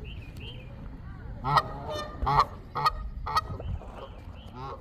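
Geese calling: about five short, loud calls, the first about a second and a half in and the last near the end, over a steady low rumble.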